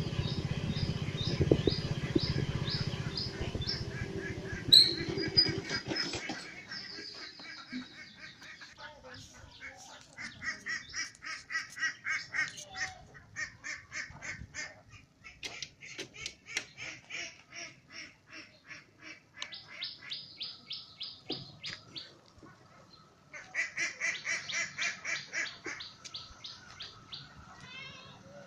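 Birds calling in bouts of quick repeated notes, several series overlapping and pausing. Over the first few seconds a passing motor vehicle's engine rumbles and fades away.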